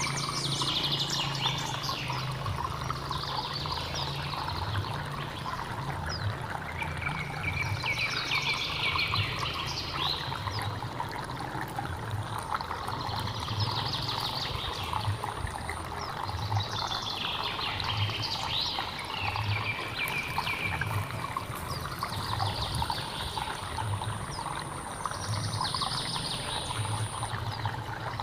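Stream water flowing steadily, under a thin, steady high-pitched insect buzz. Bursts of chirping animal calls recur about every four seconds.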